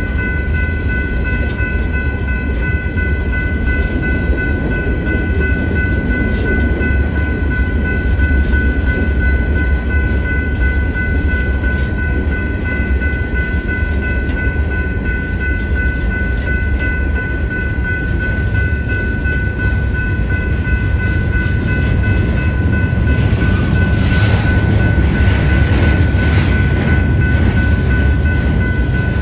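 Freight train cars rolling through a grade crossing: a steady low rumble of wheels on rail, with the crossing bell ringing on a steady tone throughout. Near the end the passing cars turn louder and hissier.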